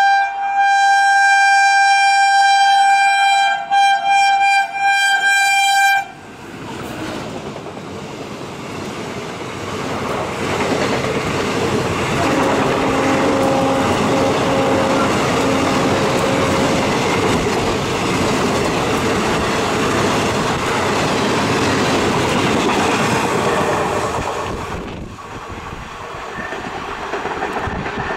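A WAP-4 electric locomotive's horn blows for about six seconds, with a couple of brief breaks, as the express approaches. Then the long train's coaches rush past at speed, the wheels clattering over rail joints.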